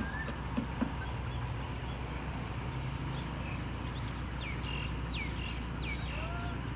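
Birds chirping, with a run of quick falling chirps and a few short whistled notes from about three and a half seconds on, over a steady low rumble from a distant Alsthom diesel-electric locomotive approaching. Two soft knocks come just under a second in.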